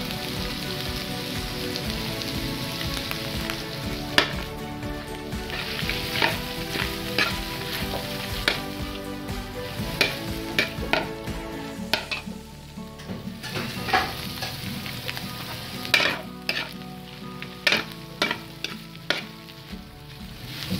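Boiled pork and chicken frying with chopped onion in a metal wok: a steady sizzle. A metal ladle stirs the pan, clinking and scraping against the wok over and over, more often from about four seconds in.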